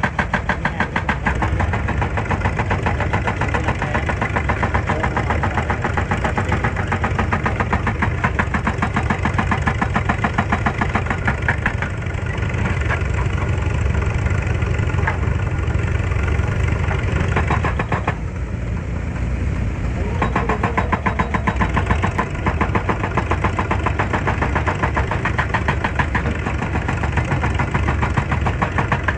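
Excavator's diesel engine running steadily with a fast, even pulse. A little past the middle the higher part of the sound drops away for about two seconds, then returns.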